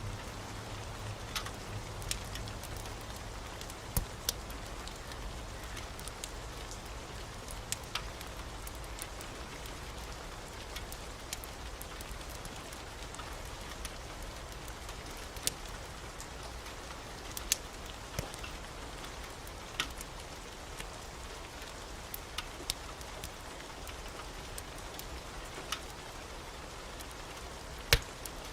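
Steady rain, with sharp crackles and pops from a wood fire in a fireplace at irregular intervals. The loudest pop comes just before the end.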